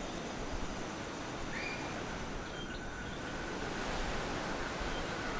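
Ocean surf washing steadily on the shore, with some wind noise and a few faint chirps.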